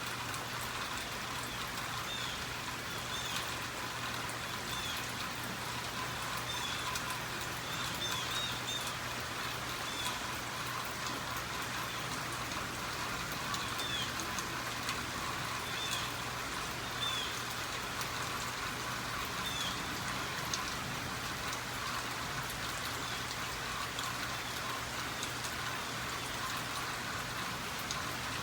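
Steady rain falling, with a few short high chirps now and then.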